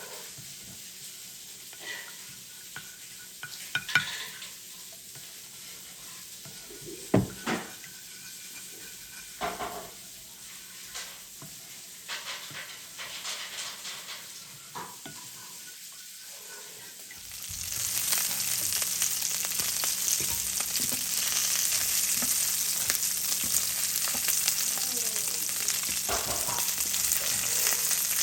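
Kitchen work with scattered clinks and knocks of utensils and dishes. About 17 seconds in, a steady sizzle of food frying in a hot pan starts and grows louder.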